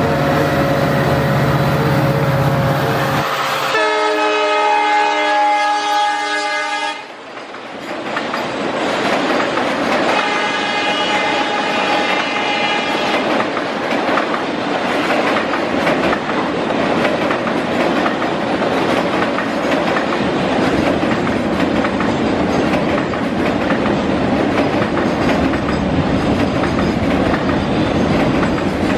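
EMD WDG4 diesel locomotive (two-stroke V16) passing close with its engine running, then sounding its horn in two long blasts about four and ten seconds in. After that, a long rake of car-carrier wagons rolls across a steel girder bridge in a steady rumble, with wheels clicking over the rail joints.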